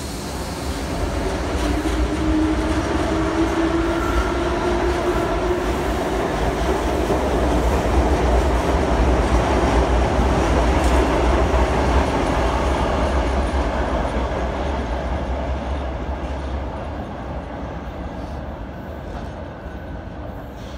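Sydney Trains electric suburban train passing close below and running away along the track. Wheels rumble and click on the rails, and a motor whine rises in pitch a few seconds in. The sound builds to its loudest midway, then fades as the train recedes.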